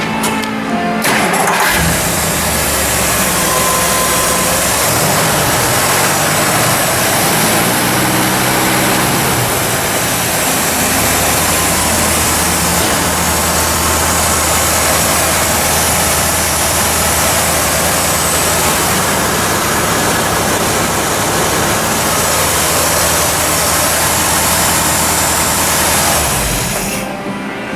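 1958 Chrysler Imperial's 392 V8 starting about two seconds in, then running steadily at idle, and shutting off near the end.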